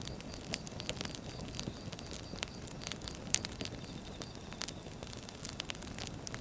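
Firewood burning, with irregular crackles and pops over a low, steady rumble of flame. One sharper pop comes a little past the middle.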